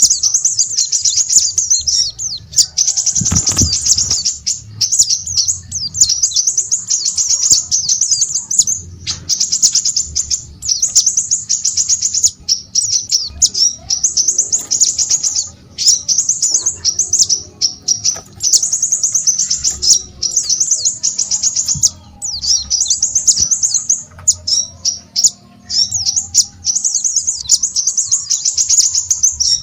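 A small songbird singing a rapid, high-pitched twittering song in phrases of a second or two with short breaks between them. A low thud sounds once about three seconds in.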